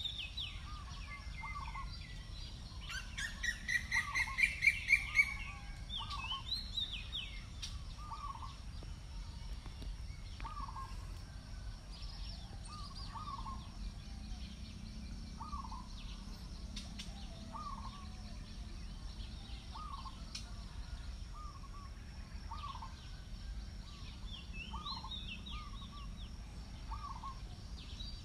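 Birds calling: one short call repeats about once a second, and a louder, rapid run of calls comes about three to five seconds in.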